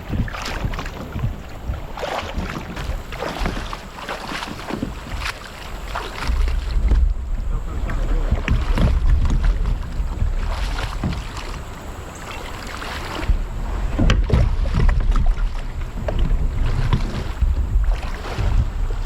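Water splashing and lapping around a kayak on a flowing river, with repeated short splashes and wind buffeting the microphone in low gusts from about a third of the way in.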